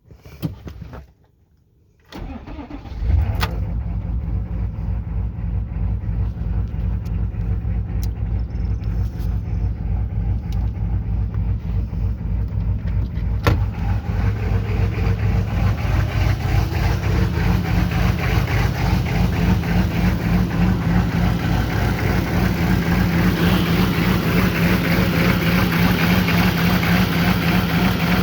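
6.5-litre turbo diesel V8 in a GMC truck cranking and catching about two seconds in, after a short sound just before, then settling into a steady idle with an even pulsing beat, the lope of its aftermarket lope tune. About halfway through a sharp click comes, and the idle turns louder and brighter.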